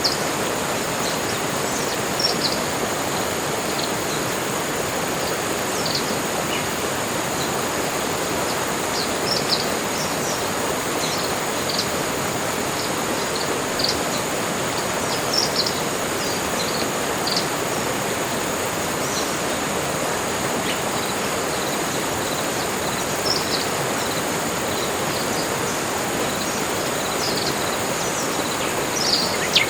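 Tropical forest ambience: a steady hiss under a constant high insect drone, with short high bird chirps scattered throughout.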